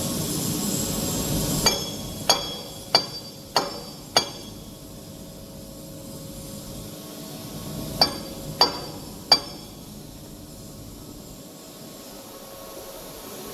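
A hammer striking metal during a bearing replacement: five sharp ringing taps about two a second, then three more about four seconds later. A steady running noise stops just before the first tap.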